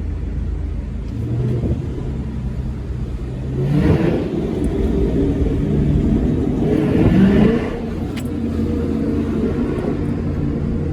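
Dodge 392 HEMI V8 exhaust running steadily under way, swelling louder in two bursts of throttle about four and seven seconds in.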